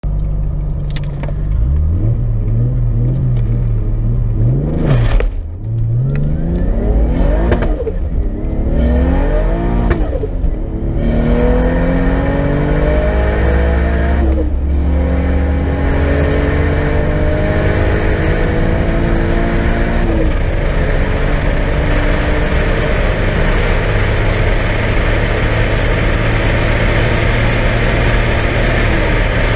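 Single-turbo Toyota 2JZ-GTE inline-six in a BMW M3 E36, running about 1.8 bar of boost through a Garrett GT3582R turbo, accelerating hard through the gears. The engine note climbs and drops sharply at each of several upshifts, then holds a high steady note with a growing hiss from about two-thirds of the way in.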